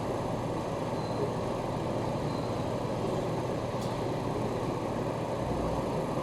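Steady rumble inside a commuter train carriage, with a faint click nearly four seconds in.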